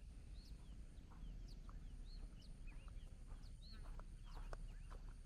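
Several small birds chirping and whistling short, high, arching notes over a steady low rumble.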